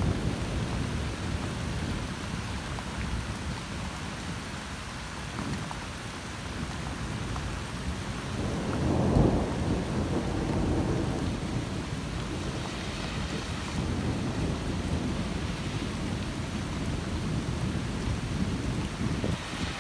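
Rain falling steadily over a constant low rumble, with a louder rumble swelling briefly about nine seconds in.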